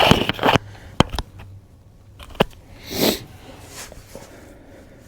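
Hand-work clatter and a few sharp clicks and knocks while a lower radiator hose is being worked loose, with a short breathy rush about three seconds in.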